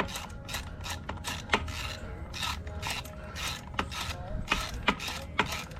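Hand ratchet wrench clicking in quick, even strokes, about four clicks a second, as bolts are driven into the jacking holes to press the flywheel cover ring off the engine.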